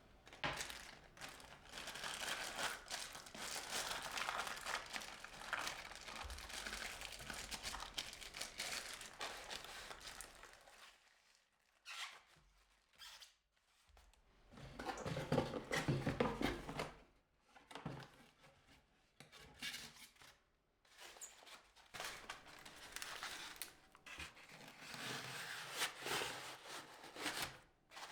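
Rustling and crinkling from materials being handled, with small clicks and scrapes, in several bouts. A long stretch comes first, then a short pause, then shorter bursts separated by gaps.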